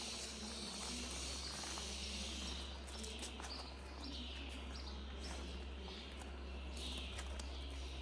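Outdoor ambience of small birds chirping, short calls repeating every second or so from about three seconds in, over a steady low rumble.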